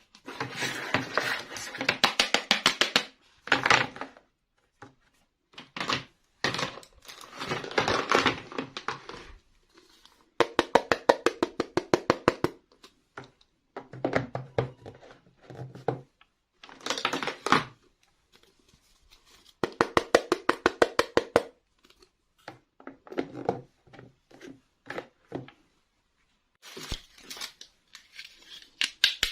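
Toy packaging being handled and opened: bursts of rapid clicking and rasping a second or two long, like cutting, tearing and crinkling, with short pauses between them.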